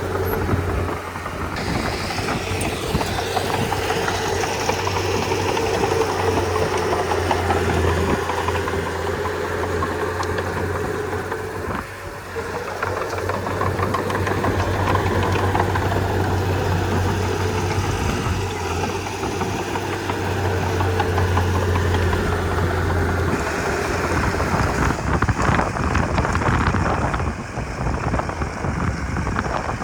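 Komatsu D31P bulldozer's diesel engine running steadily. About 23 seconds in, the steady low hum stops abruptly and the engine sound changes.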